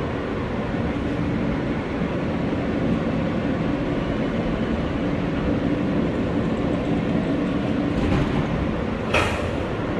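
R143 subway train on the L line, a steady rumble with a low hum. About nine seconds in there is one short, sharp hiss.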